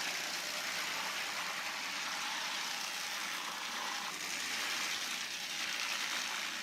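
Heavy machinery running steadily, a constant engine-driven noise with a hiss in the upper range and a faint hum beneath.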